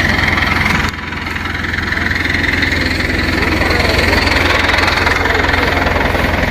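Diesel engine running steadily. The sound drops suddenly about a second in, then builds back up over the next few seconds.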